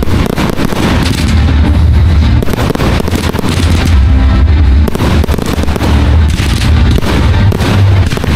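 Fireworks going off in quick succession, bursts and crackling one after another, over music with a strong bass.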